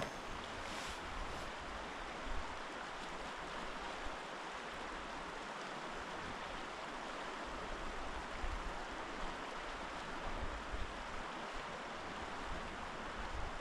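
River water rushing over a stony bed, a steady even rush, with a low rumble that comes and goes underneath.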